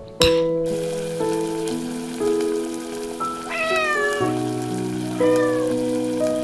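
Soft music of held notes with a cat meowing about three and a half seconds in, its pitch falling, and a shorter, fainter meow about a second later. A steady rain hiss runs underneath.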